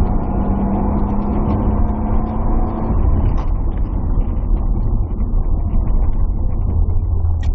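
Turbocharged Nissan R31 Skyline's straight-six running hard on a hillclimb run at 13 psi boost, heard from inside the cabin with road and wind noise. The engine note changes about three seconds in, at a gear change.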